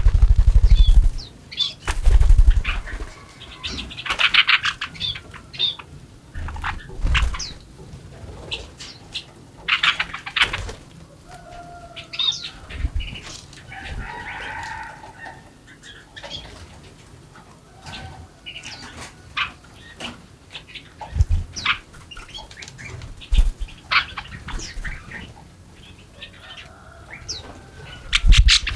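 Small birds chirping and calling in short scattered notes, with repeated flutters of wings and soft thumps, the loudest thumps near the start.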